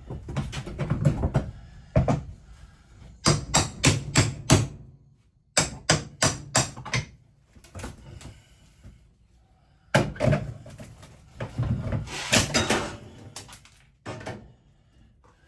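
Knocks and bangs on wooden RV kitchen cabinetry being knocked loose for removal, in clusters of several quick strikes, with a stretch of scraping near the end.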